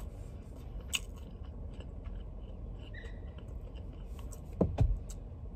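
A person chewing a mouthful of fried chicken sandwich up close, with small mouth clicks over a steady low rumble. Two dull thumps come near the end.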